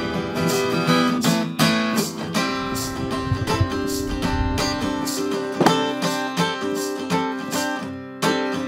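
Acoustic guitar strummed and picked, an instrumental passage of a folk-rock song, the playing easing off near the end.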